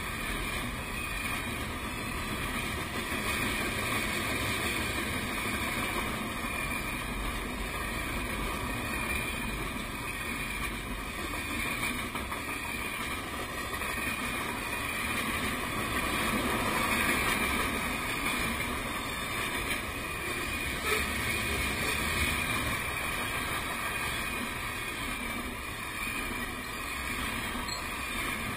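A moving train: a steady rumble and rushing noise of wheels on rail and air, holding even throughout with a slight swell about two-thirds of the way through.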